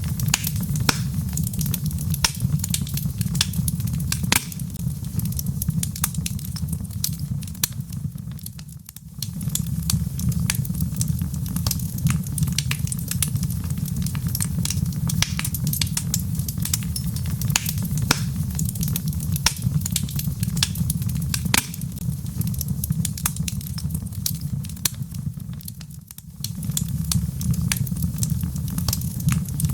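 Wood fire in a fireplace, burning with a steady low rumble and frequent sharp crackles and pops from the logs. The sound briefly drops away twice, about 9 and 26 seconds in, then returns.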